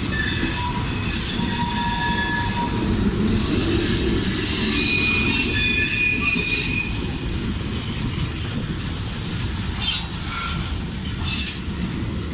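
CSX manifest freight train M453 rolling past: a steady rumble from the freight cars, with high wheel squeal that comes and goes.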